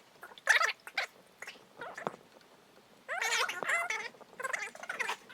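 Men laughing in several bursts, some high-pitched.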